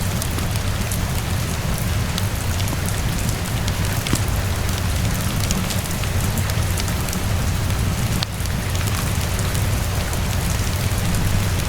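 Steady rainfall hissing, over a constant low rumble, with frequent small crackling pops of a wood fire scattered through it.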